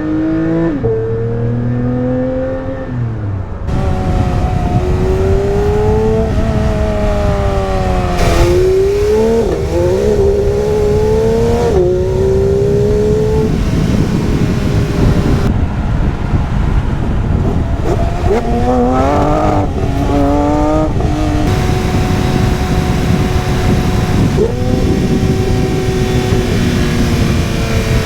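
Porsche 992 GT3's naturally aspirated flat-six revving hard through the gears, its pitch climbing and then falling back at each gear change, over a steady rushing noise. A quick run of rises and falls comes about three-quarters of the way through, followed by a steadier, slowly falling note.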